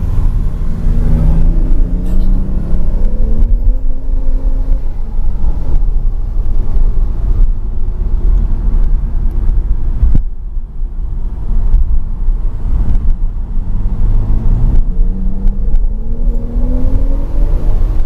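Turbocharged sports car engine accelerating hard, its pitch climbing through the gears with breaks at the shifts about five and ten seconds in, over a heavy low rumble.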